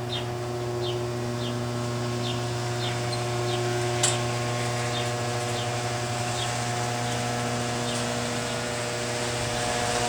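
Chamberlain HD200D chain-drive garage door opener motor running steadily with a hum as it drives the door closed, with one sharp click about four seconds in. A bird chirps about twice a second in the background, fading out after several seconds.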